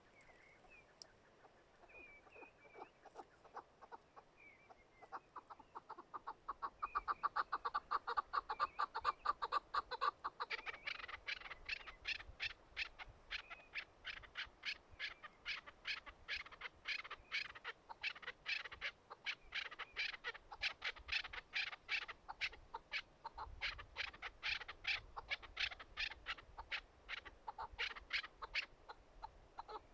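Chukar partridge calling: a few soft chirps, then a long run of rhythmic clucks, about three a second, that grows louder about a third of the way in.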